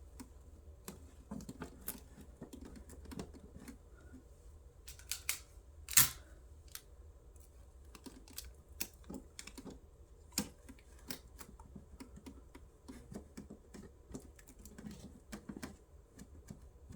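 Scattered light clicks and taps from hands handling a small wooden dollhouse door and bits of tape, with a sharper knock about six seconds in and another about ten seconds in.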